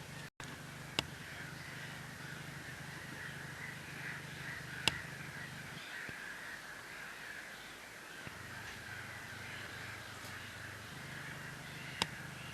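A flock of birds calling continuously: a dense chatter of many overlapping calls. Three sharp clicks cut through it, about a second in, near the middle and near the end.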